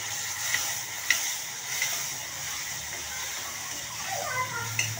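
Chopped onions and tomatoes sizzling in hot oil in a kadai as a steel spoon stirs them, with four sharp clinks of the spoon against the pan.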